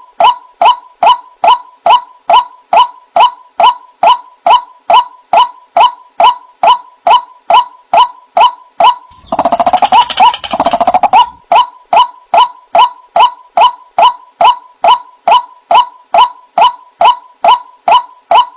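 White-breasted waterhen calling: a loud call note repeated about two and a half times a second, each note dipping slightly in pitch. About nine seconds in, a harsher, noisier stretch breaks the rhythm for about two seconds before the steady repetition resumes.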